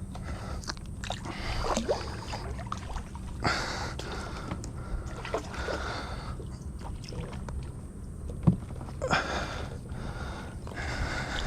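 Water splashing and sloshing around a kayak, with a few sharp knocks and two louder splashes, about three and a half and nine seconds in.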